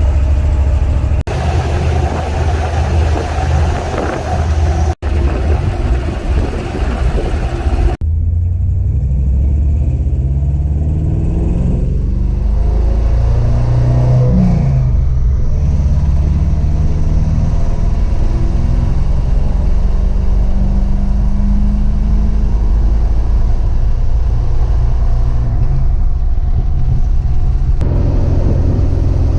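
Pickup truck driving: engine and road noise, with the sound changing abruptly a few times. For most of the stretch the engine note rises and falls with changing speed.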